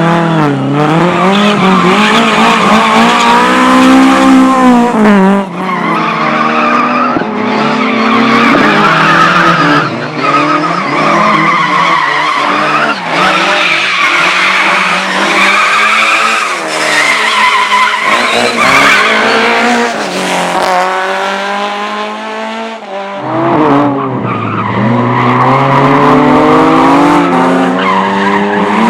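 Competition car driven hard through a slalom course: the engine revs up and drops back again and again through gear changes and turns, with tyres squealing. The revs fall away briefly near the end, then climb again.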